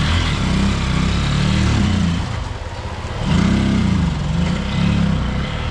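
A motor vehicle's engine running, its pitch rising and falling several times as the throttle changes, easing off briefly about three seconds in.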